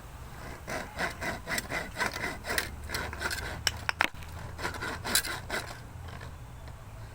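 Irregular scraping and rubbing strokes on a hard surface, with a few sharp clicks about four seconds in, stopping about a second before the end.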